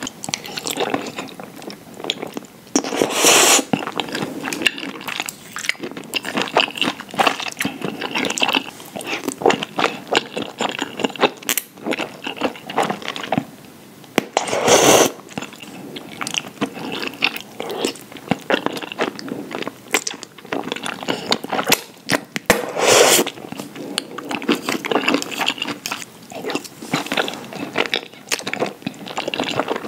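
Close-miked chewing and slurping of creamy shrimp fettuccine alfredo: a steady run of wet, sticky mouth sounds and small clicks, with three louder slurps of noodles about three, fifteen and twenty-three seconds in.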